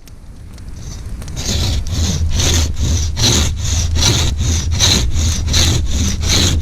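Hand saw cutting through wood in quick, even back-and-forth strokes, about three or four a second, starting about a second and a half in.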